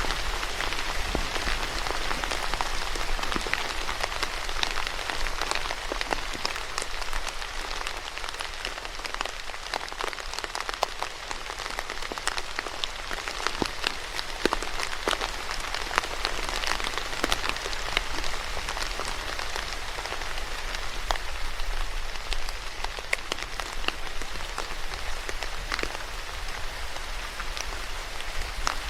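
Steady rain falling, a dense even hiss with many sharp individual drop ticks striking a surface.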